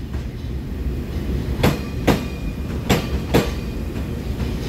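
Taiwan Railways EMU3000 electric multiple unit rolling past as it pulls out of the station: a steady low rumble, with sharp wheel clacks over the track joints coming in pairs as each bogie's wheels cross, two pairs about a second apart.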